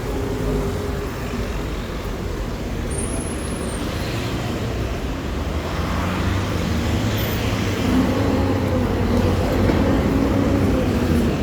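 Motor vehicle running: a steady low engine rumble with a hum that drifts slightly in pitch, a little louder in the second half.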